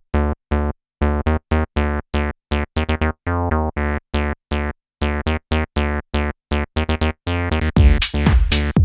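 Behringer TD-3 bass synthesizer playing a squelchy TB-303-style acid bassline on its own: short staccato notes, each with a bright top that quickly closes down. Near the end the drum loop comes back in.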